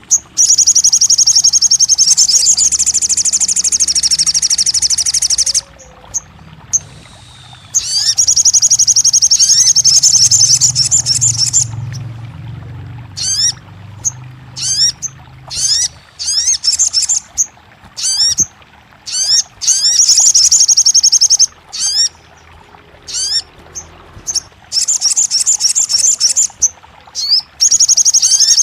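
Songbird singing: loud, fast high trills lasting a few seconds each, alternating with runs of separate sharp upward-sweeping notes, used as a song recording to coax a silent caged sogon bird into singing.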